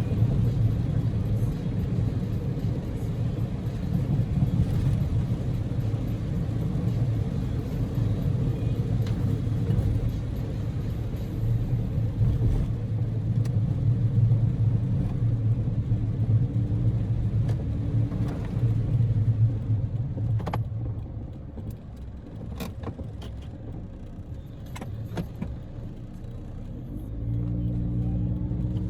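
Interior sound of a Daihatsu Move kei car's 660 cc three-cylinder engine and tyres on the move: a dense, steady road-and-engine rumble that eases off about two-thirds of the way through, with a few sharp clicks. The engine note climbs again near the end as the car accelerates.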